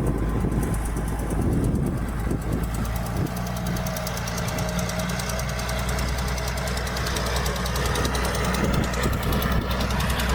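Diesel engine of heavy earthmoving equipment running steadily, with a low rumble and a mechanical clatter over it.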